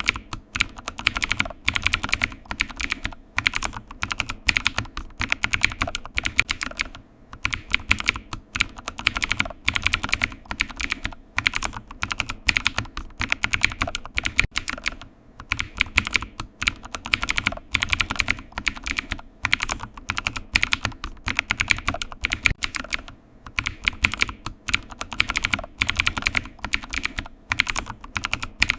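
Computer keyboard typing: rapid runs of key clicks with short pauses every few seconds.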